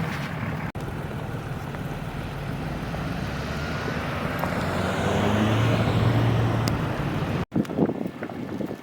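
A motor vehicle's engine and tyres running on a snowy highway, with a steady low engine note that grows louder to a peak about six seconds in. The sound breaks off abruptly at a cut about seven and a half seconds in.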